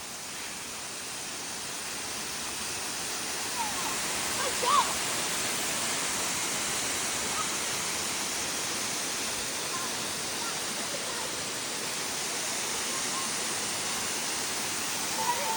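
Waterfall: a steady rush of falling water that swells over the first few seconds and then holds.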